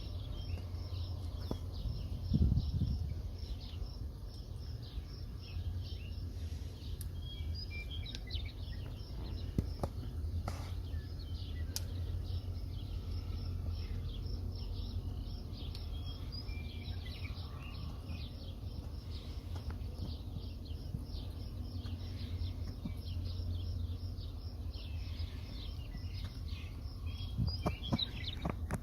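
Outdoor nature ambience: many short, high chirps keep up throughout over a steady low rumble, with a brief louder thump about two and a half seconds in.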